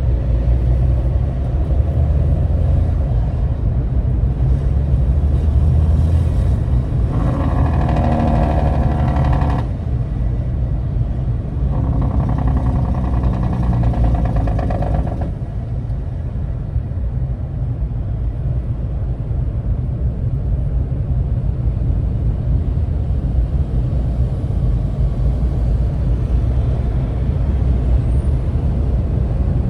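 Steady low rumble of a vehicle crawling in traffic. Twice, about seven and twelve seconds in, a pitched engine drone rises over it for two to three seconds and cuts off sharply.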